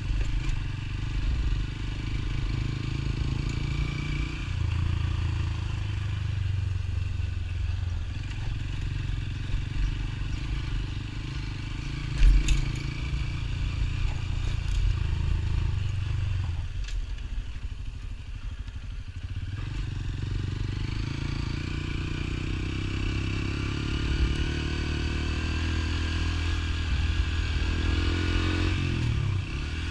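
Motorcycle engine running steadily while riding. Its low note drops away for a few seconds past the middle, then picks up again, and it revs up with a rising pitch near the end. There is a single sharp knock a little before the middle.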